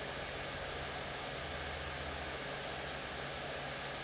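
Steady, even hiss with a faint low hum underneath and no separate knocks or clicks.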